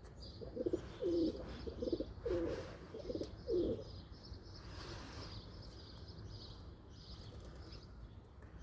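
Pigeon cooing, a run of low coos in the first four seconds, with small birds chirping steadily in the background.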